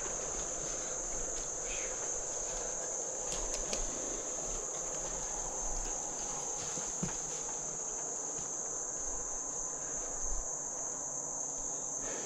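Steady, unbroken high-pitched drone of an insect chorus, crickets or cicadas, with a few faint clicks.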